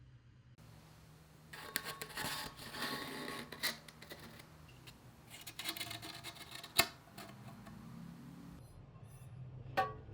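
Hand work on metal bicycle parts: two spells of scraping and rubbing, with a sharp metallic click at the end of the second and another clink near the end.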